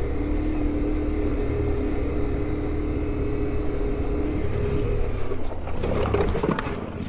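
Off-road motorcycle engine running at a steady pace with a constant droning hum. About five and a half seconds in it gives way to a more irregular, rougher noise.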